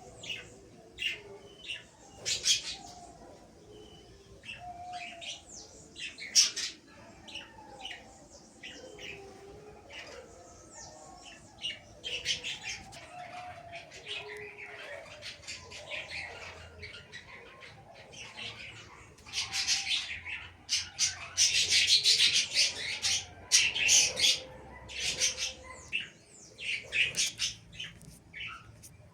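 Caged birds chirping and chattering in many short, high calls, growing into a dense, louder burst of chatter about two-thirds of the way through.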